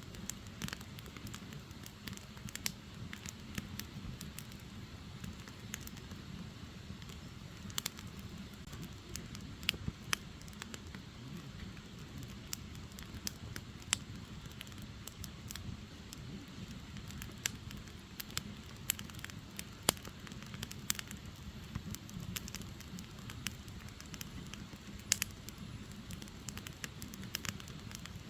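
Firewood burning, with irregular sharp crackles and pops from the logs over a low, steady rumble.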